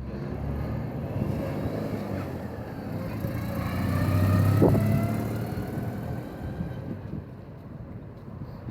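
A car driving past, its engine note swelling to its loudest about halfway through, then falling in pitch and fading away.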